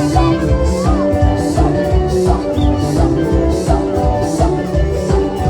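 Band music with a steady beat: heavy drums and bass under held pitched notes, with a cymbal hitting about twice a second.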